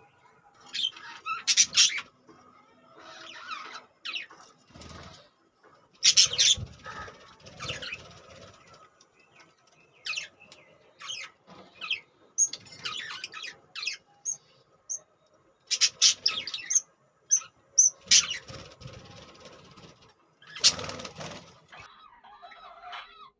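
Pet budgerigars in a cage chirping, with short high calls between irregular bursts of wing fluttering and scuffling every second or two.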